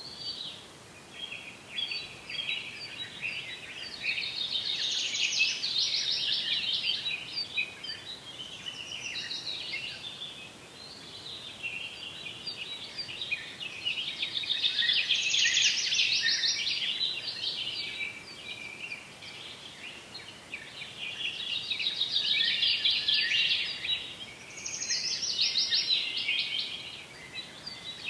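Many small birds chirping and singing together in a dense, rapid chorus that swells and fades in waves, loudest about five, fifteen and twenty-three seconds in.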